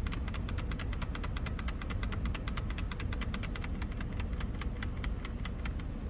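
Mercedes-Benz CLK320's 3.2-litre V6 idling, a steady low rumble with a fast, even ticking of about ten ticks a second over it.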